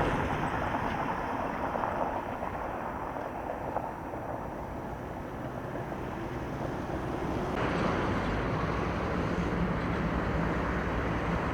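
Steady outdoor vehicle noise with wind on the microphone; the sound changes abruptly about 7.5 s in, after which a low steady engine hum comes through.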